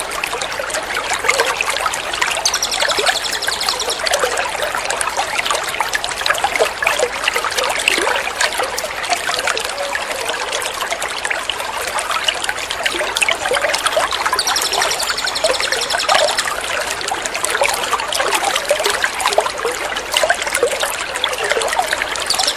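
Steady trickling, splashing water, a looped water-therapy recording. A small songbird's fast, high, evenly repeated trill sounds over it twice, about three seconds in and again about fifteen seconds in.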